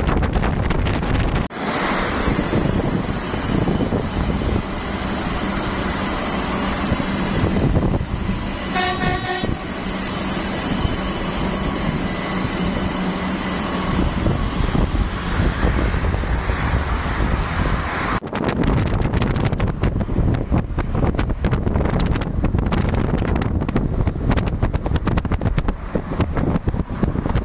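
Electric light rail train running, with wind buffeting the microphone; a short pulsing horn sounds about nine seconds in.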